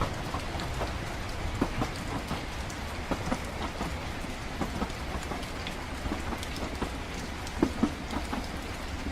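Steady rain with scattered close drops, over the low continuous rumble of a moving train.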